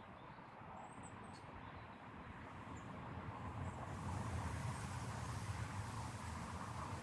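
Outdoor background noise: a low rumble and hiss that grow louder after the first few seconds, with a few faint, short, high bird chirps about a second in.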